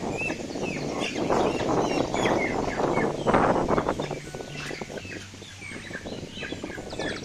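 White broiler chickens squawking with short, falling distress calls, and flapping their wings as they are grabbed by hand. The flapping flurries are loudest a few seconds in.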